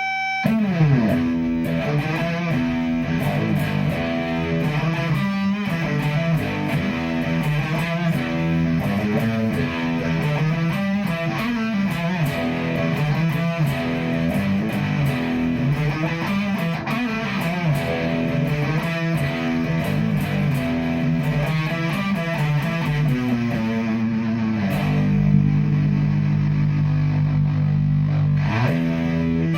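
Electric guitar played through a Mythos Positron fuzz pedal, a distorted, fuzzy tone. It opens with a sliding note into a riff of changing notes and chords, then a chord is held for a few seconds near the end.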